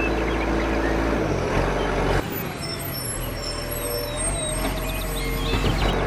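A motor running steadily with a low, even hum. It drops away abruptly about two seconds in, leaving fainter higher tones, and comes back before the end.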